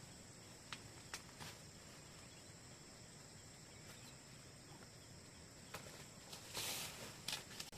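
Faint outdoor ambience of insects trilling steadily at a high pitch, with a few sharp clicks early on and about six seconds in, and a short rustle shortly before the end.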